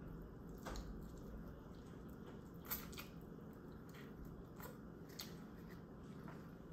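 Quiet biting and chewing of a hot chicken wing, with a few separate sharp mouth clicks spread through it, the loudest about two and a half seconds in.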